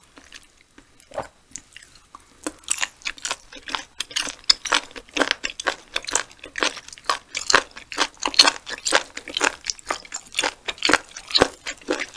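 Close-mic'd chewing of sea hare foot meat: wet mouth clicks and smacks at about two to three a second. It starts about two and a half seconds in, after a near-quiet moment with one faint click.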